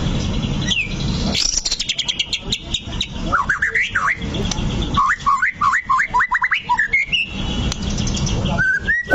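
White-rumped shama (murai batu) singing: a fast rattling trill, then a string of quick whistled notes sweeping up and down, over a steady low rumble.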